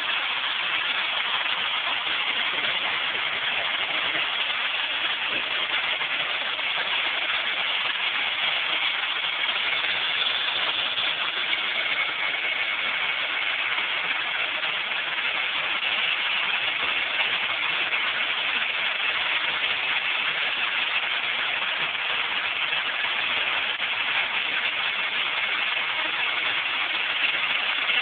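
A motor running steadily at an even pitch and level, with a continuous mechanical whirr and no starts, stops or changes in speed.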